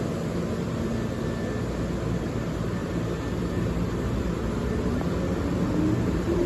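Hankyu 5300 series electric train starting to pull away: a steady low rumble, with a motor whine beginning to rise in pitch near the end as the train picks up speed.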